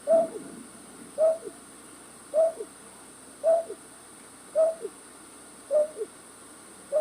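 Night bird's call used as a lure for night trapping: a short hooting note followed by a lower falling note, repeated evenly about once a second.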